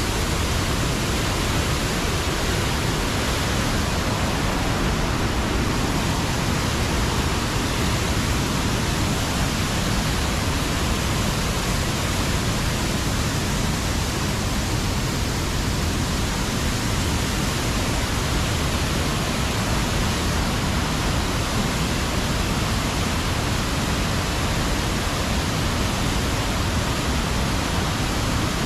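Steady rushing water, an even hiss with no breaks or changes in level.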